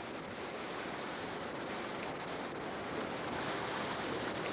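Steady rushing of river water below a dam, an even wash of noise with no distinct events.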